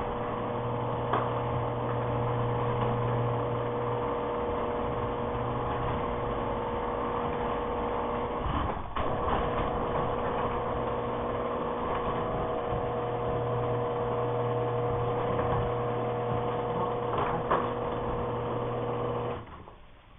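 Electric garage door opener running steadily as the door travels. The motor hum breaks off briefly about nine seconds in, as the door stops and reverses, then carries on until it cuts off suddenly near the end.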